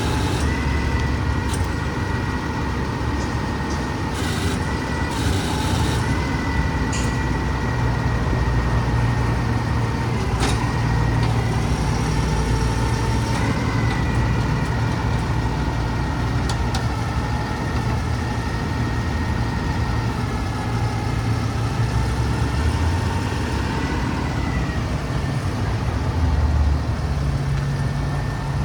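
Diesel engine of a Freightliner M2 grapple garbage truck running steadily, with a constant whine over it that shifts slightly in pitch now and then, and a few sharp clicks.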